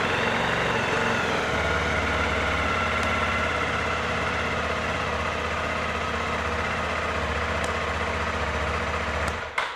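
Zontes T310 Adventure's 312 cc single-cylinder engine idling steadily just after starting, then switched off and stopping abruptly near the end.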